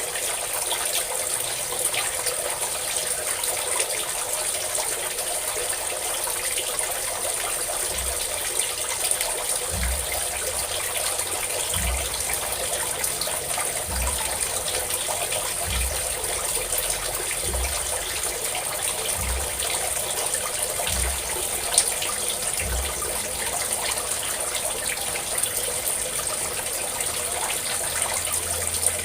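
Water pouring steadily from a spout, a continuous splashing rush. Faint low thuds come about every two seconds through the middle.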